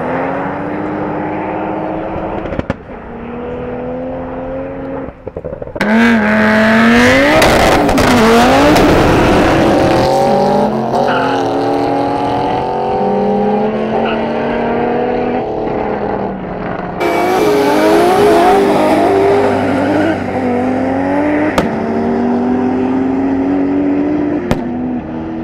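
Drag race cars accelerating hard, engines revving up and dropping in pitch at each gear change, several runs following one another with sudden jumps at about six and seventeen seconds in.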